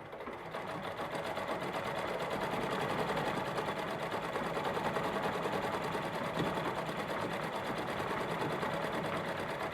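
Minerva central-bobbin sewing machine (early 1930s) stitching fast and steadily in free motion embroidery. It starts at the opening, picks up over the first second or two, then runs at an even pace.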